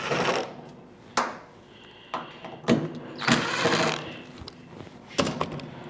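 Power screwdriver running in two short bursts, backing sheet metal screws out of the heater's metal shield, with a few sharp clicks in between.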